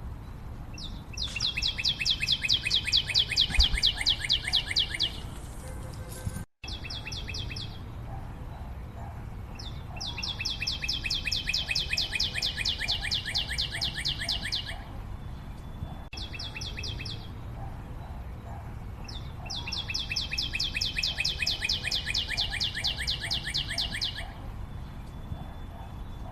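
A bird singing in long rapid trills, three of them about four seconds each with short bursts between, each trill a fast even run of high notes falling slightly in pitch.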